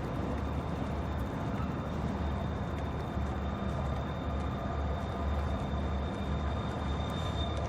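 Freight train's diesel locomotives running with a steady low rumble, a thin steady high whine over it.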